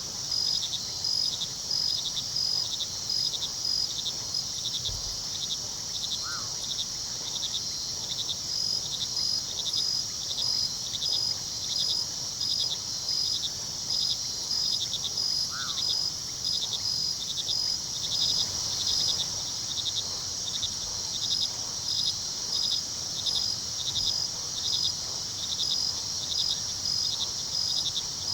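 Crickets chirping in a steady chorus that pulses about once a second, over a low hush of river water. Two or three short, faint calls stand out from the chorus.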